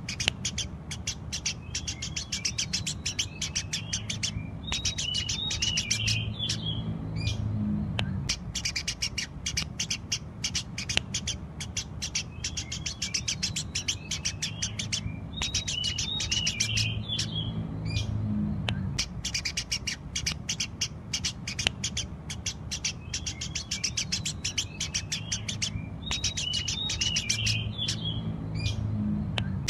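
Eurasian tree sparrows chirping rapidly and without pause, a dense run of sharp chirps broken by twittering phrases about every eleven seconds; the same stretch repeats, as in a looped recording.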